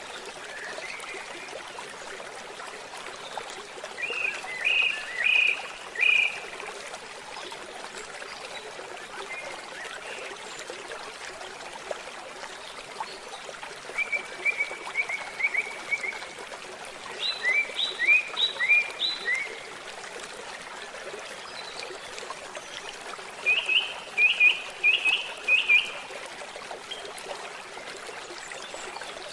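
Gently babbling forest stream, with a songbird singing four short phrases of quick repeated notes over it.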